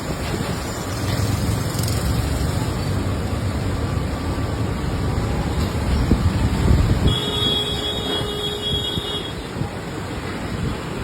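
Street traffic noise: a steady low rumble of passing vehicles. About seven seconds in, a steady high tone sounds for about two seconds.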